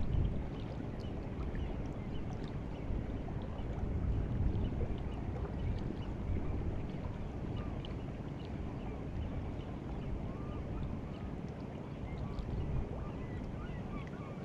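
Seawater of the White Sea lapping and moving along the shore on the incoming tide, a steady wash with many small high trickles, over a low rumble of wind on the microphone.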